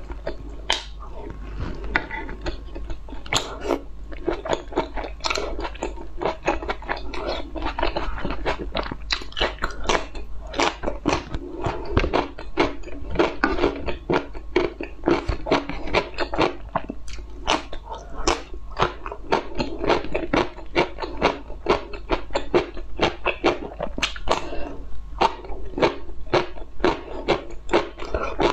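A person chewing and biting food, with many sharp, irregular crunches.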